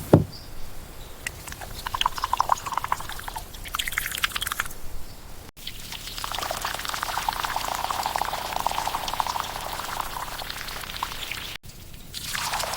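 Grape jam bubbling and popping as it cooks in a pot, a dense crackle of small pops that runs steadily through the longest stretch. The sound breaks off at hard cuts twice.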